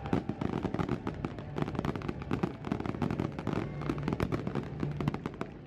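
Aerial fireworks going off in a fast, dense string of bangs and crackles, many reports a second with no break.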